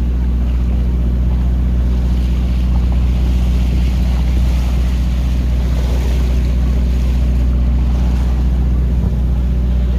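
A boat's engine running steadily with a deep, even hum, under a constant rush of wind and water.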